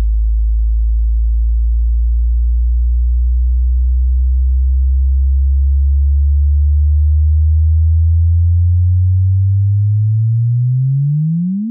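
Space signal turned into sound: a loud, low pure tone that rises slowly in pitch, then sweeps up sharply and cuts off at the end, like a chirp.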